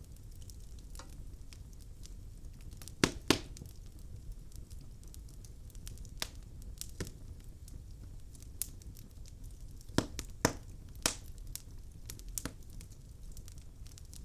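Wood logs burning in a fireplace, crackling with scattered sharp pops over a low steady rumble; the loudest pops come as a pair about three seconds in and a cluster of three about ten to eleven seconds in.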